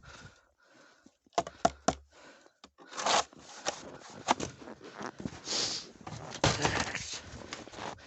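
Footsteps crunching in snow, with scrapes and a quick cluster of sharp knocks about a second and a half in.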